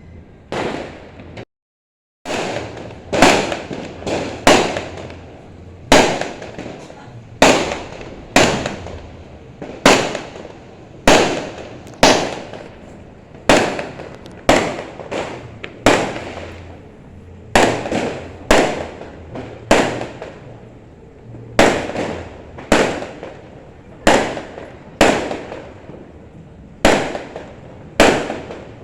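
New Year fireworks going off in a rapid, even string of sharp bangs, roughly one every three-quarters of a second, each trailing off in a short echoing tail. Near the start the sound cuts out completely for under a second.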